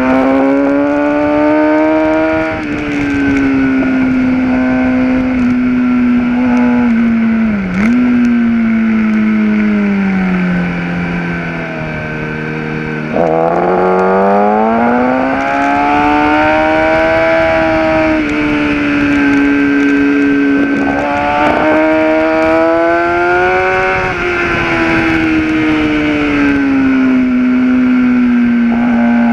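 Kawasaki ZX-10R's inline-four engine heard from on board at track speed, its note rising under throttle and dropping at each gear change. About halfway through the pitch falls away for several seconds as the bike slows, then climbs sharply again as the throttle comes back on. Wind rushes over the microphone throughout.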